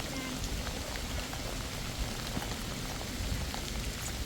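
Heavy rain falling steadily, with scattered single drops ticking through it.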